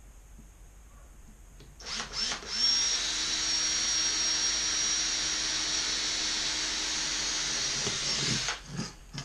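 An electric power tool starts with a couple of short bursts, then runs steadily for about six seconds with a high whine before stopping, likely at work on the cut-down aluminium exhaust can.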